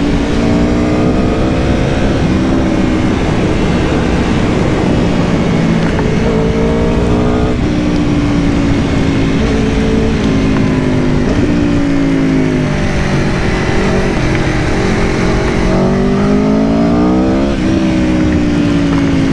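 Aprilia Tuono V4 Factory's V4 engine pulling on the road, its pitch climbing and then dropping sharply at a gear change about seven and a half seconds in and again near the end, over a steady rush of wind and road noise.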